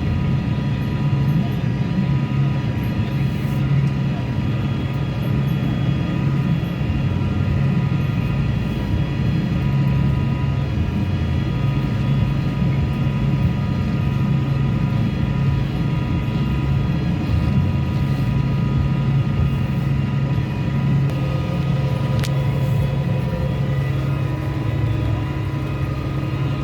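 Case IH tractor engine running steadily under load while pulling a disk harrow through the field: a constant drone with a thin, steady whine above it.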